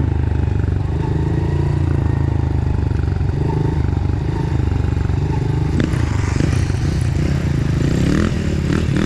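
Dirt bike engine running at a steady, moderate speed, with rattling and scraping from the bike over rough trail.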